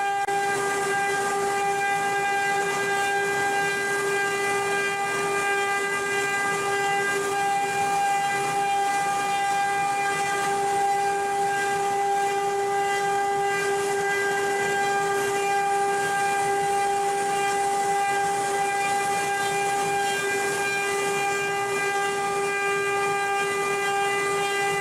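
CNC wood-carving router running, its spindle giving a steady, unchanging whine over a constant hiss.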